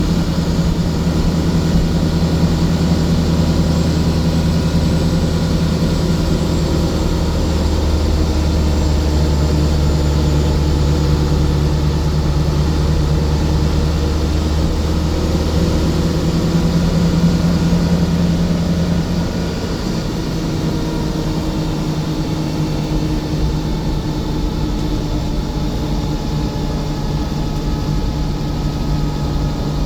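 Scania coach's diesel engine running steadily with a deep hum; about two-thirds of the way through the low engine note drops away, as when the engine eases off.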